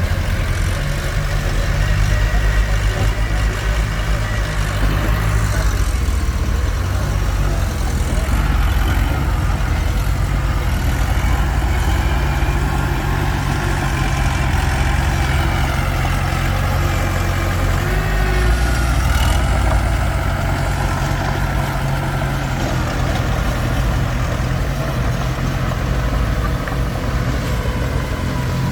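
Komatsu D21P bulldozer's diesel engine running steadily at working speed. Its deep note rises and falls a little as the load changes.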